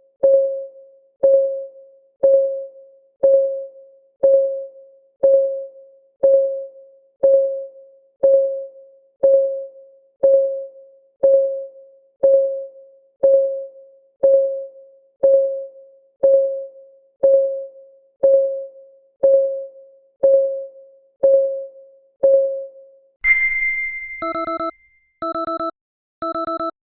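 Countdown timer's clock ticking sound, about one tick a second, which stops as the countdown ends. A single high chime follows, then an alarm of three even beeps about a second apart.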